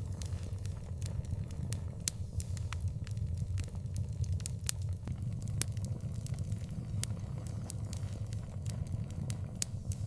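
Wood fire burning, with frequent sharp crackles and pops at irregular intervals over a steady low rumble of the flames.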